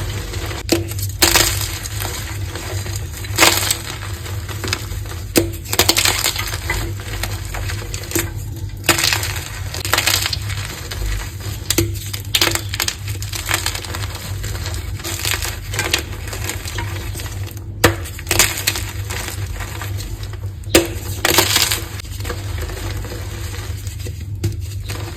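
Green-dyed gym chalk pieces being crushed and squeezed, giving short powdery crunches at uneven intervals over a steady low hum.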